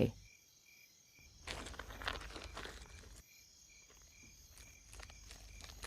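Faint night ambience: an insect chirping in short pulses, about two or three a second, with dry rustling and crunching about a second and a half in and again near the end.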